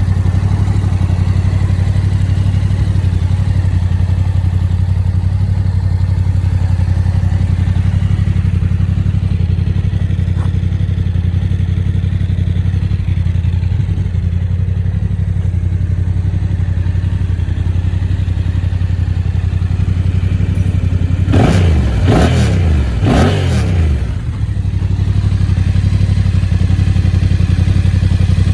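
Yamaha Tracer 7's 689 cc parallel-twin engine idling steadily, then blipped up and down about three times in quick succession near the end.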